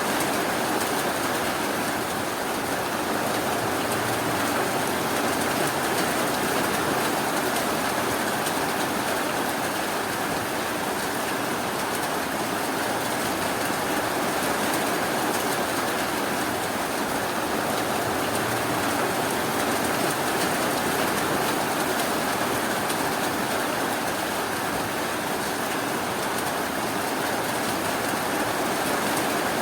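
Steady rainfall: an even, unbroken hiss of rain with no thunder or single drops standing out.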